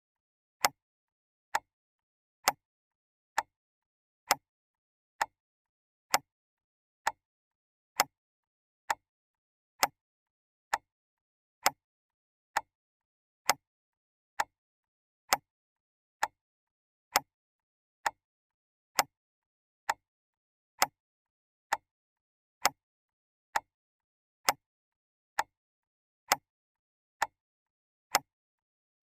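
Clock ticking steadily, a little under one tick a second, the ticks alternately slightly louder and softer, with silence between them.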